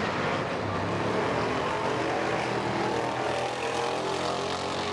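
Car engine running with a steady, droning pitch.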